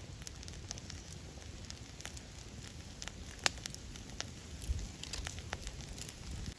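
Wood campfire crackling, with irregular sharp pops and snaps; the loudest pop comes about three and a half seconds in.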